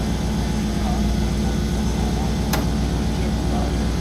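Light aircraft's piston engine running steadily with an even hum, with a single sharp click about two and a half seconds in.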